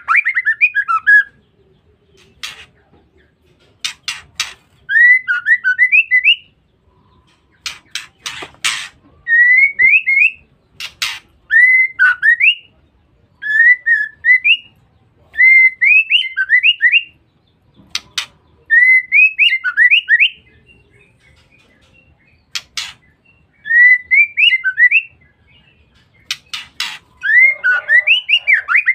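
Female white-rumped shama calling in short phrases of quick rising and falling whistled notes, each about a second long and repeated every couple of seconds with pauses between, with sharp clicks scattered among them.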